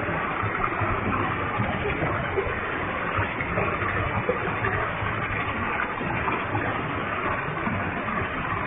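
Waterfall with a heavy flow of water: a steady, even rush of falling water.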